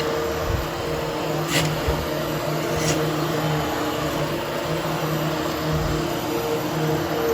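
Hoover Hushtone upright vacuum cleaner running steadily with a low hum while it is pushed over damp nylon carpet to groom the pile. Two brief high-pitched sounds come about a second and a half apart, early in the run.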